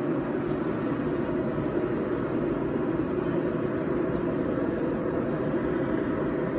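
A forge running with a steady, unchanging rushing noise. No hammer blows are heard.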